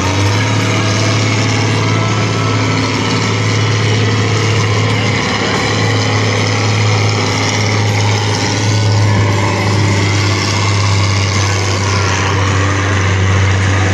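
International tractor's engine running hard and steady under load as it pulls the weight sled in a stock-class tractor pull.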